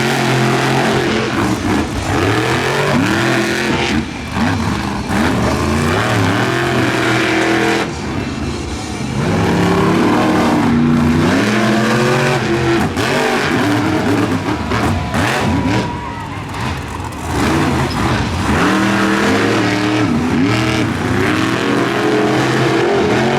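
Monster truck engines revving hard during a race, their pitch climbing and dropping again and again as the throttle is worked, with short let-offs now and then.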